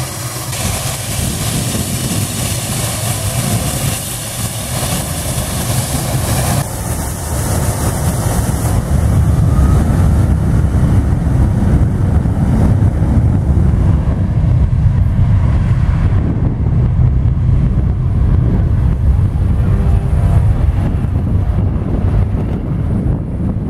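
Boeing 757-200's jet engines at takeoff thrust: a hiss that grows into a heavy, loud rumble about ten seconds in and holds.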